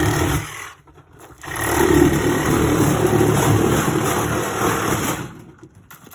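Power saw cutting into an old dishwasher's casing, running steadily; it stops about half a second in, starts again a second later, and stops near the end.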